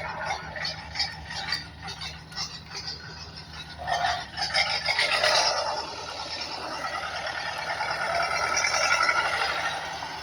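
Plastic toy vehicle rattling and scraping as it moves, with a louder burst about four seconds in, then a steady warbling whir that swells and fades near the end.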